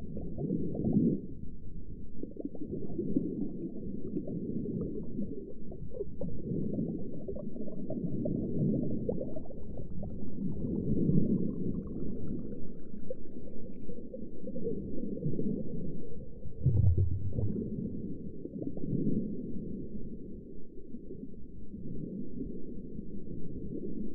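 Underwater ambience: a muffled low rumble of moving water that swells and fades every couple of seconds, with one low thud about two-thirds of the way through.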